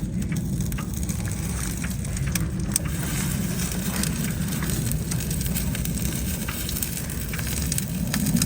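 The 3.0 L V6 of a 2004 Ford Taurus, its oil replaced with dish soap, churning hard with a steady low rumble and faint crackling over it.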